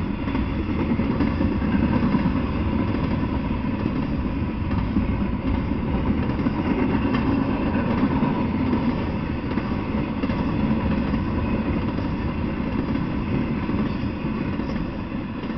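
Double-stack intermodal container freight train passing: a steady rumble of its wheels on the rails, fading near the end as the last cars go by.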